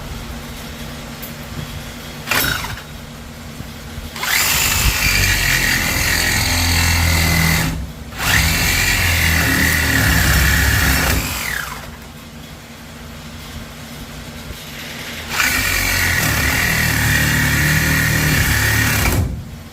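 Cordless angle grinder cutting metal in three long runs after a short blip, a steady high whine over rough grinding noise, its pitch falling each time the trigger is released and the disc spins down.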